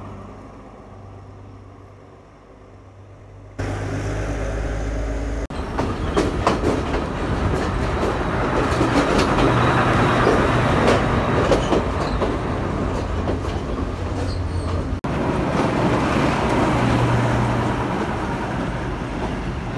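Diesel locomotive's engine running with a steady low hum as the train moves past at close range, wheels clattering over the rail joints; the sound jumps suddenly louder about three and a half seconds in.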